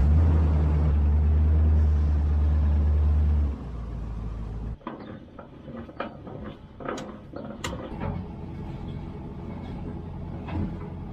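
Pickup truck engine running steadily, then dropping away about three and a half seconds in. From about five seconds on, scattered sharp metal clanks and knocks from unhooking a trailer.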